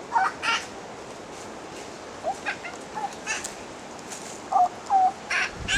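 A series of short bird calls, several brief chirps and squawks, some bending in pitch, loudest and closest together near the end.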